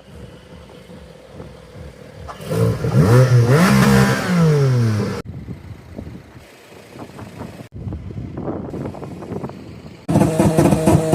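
Car engine revved hard: its pitch climbs and then falls back over about two seconds, a little over two seconds in. Near the end another engine note comes in loud and holds at a steady pitch.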